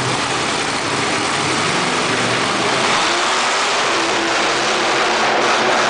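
Monster truck engine running loud and revving, its pitch rising slightly a little past halfway.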